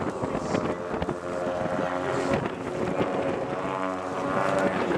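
Van's RV-8 propeller aircraft in display flight: a steady piston-engine and propeller drone whose pitch drifts up and down as they manoeuvre, with wind buffeting the microphone.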